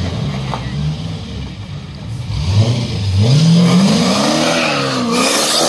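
Supercharged Ford Capri's engine burbling, then revved hard as the car pulls away, its pitch climbing and dropping in a few swells. A loud hiss joins near the end.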